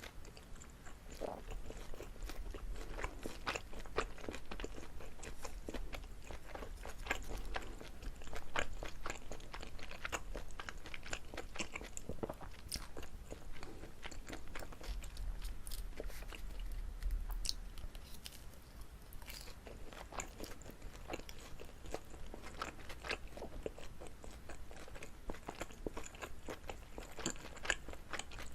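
Close-miked chewing and biting of chewy pan-fried rice cake, with many small sticky mouth clicks and smacks.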